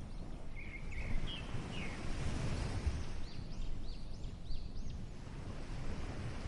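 Ocean waves and wind as a steady low rumble, with a bird calling over them: a few short chirps in the first two seconds, then a quick run of about six rising-and-falling whistled notes around the middle.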